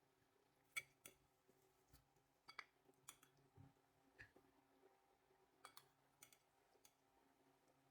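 Faint, scattered sharp clicks and light taps, about ten of them at irregular intervals, the loudest a little under a second in.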